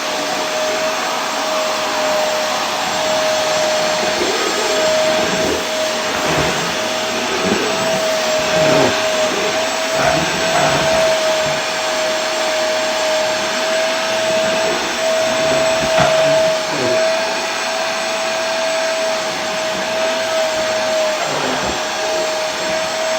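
Vacuum cleaner running steadily: a constant rush of air with a single steady motor whine held through it.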